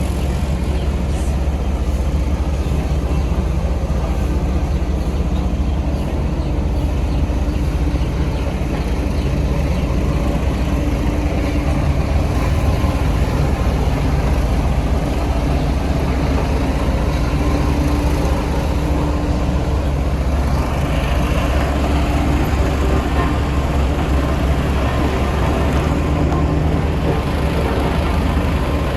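Heavy construction machinery's diesel engine running steadily: a continuous low rumble with a steady hum, without breaks.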